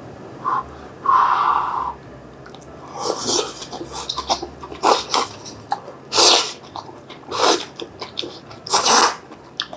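Close-miked eating of spicy bean sprout and glass-noodle japchae: noodles slurped and crisp bean sprouts chewed, heard as a string of short noisy slurps and crunches, with one louder burst about a second in.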